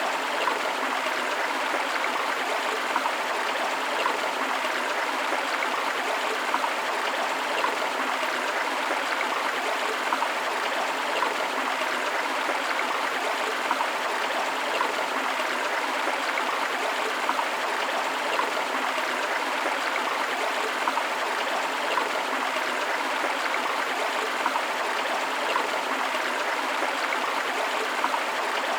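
River water flowing and splashing over rocks in a steady rushing stream, with small splashes and gurgles flickering through it.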